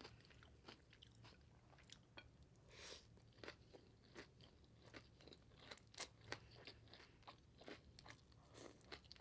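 Faint, close-up chewing of a banh mi, a baguette sandwich with cucumber and carrot, with irregular small crunches and mouth clicks.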